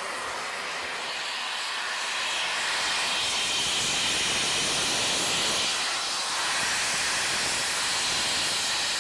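Steady, loud hiss from the Peppercorn A1 Pacific steam locomotive 60163 Tornado, building over the first few seconds and then holding.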